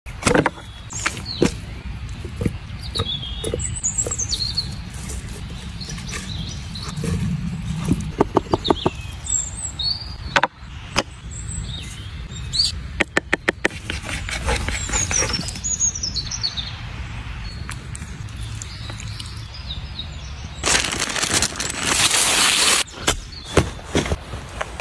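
Small birds chirping again and again in woodland over a steady low rumble, with scattered knocks and clicks, two quick runs of rapid clicks, and a loud rush of noise lasting about two seconds near the end.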